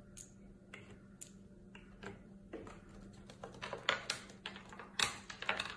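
Small objects being set out on a hard surface: light, irregular clicks and taps that grow busier in the second half, over a faint steady hum.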